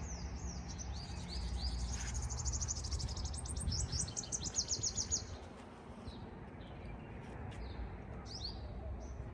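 Small birds chirping, with a fast run of high, rapidly repeated chirps from about two to five seconds in and scattered single chirps after, over a steady low background rumble.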